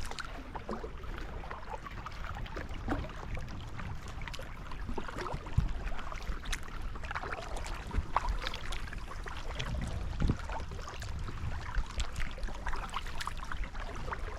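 Water splashing and lapping around a plastic folding kayak, with scattered small knocks. Wind rumbles on the microphone underneath.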